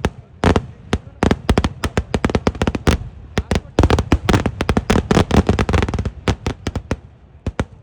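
Eeduvedi fireworks: a rapid, irregular barrage of loud cracker bangs going off in quick succession. The bangs come thickest about halfway through, then thin out to a short lull before a few more near the end.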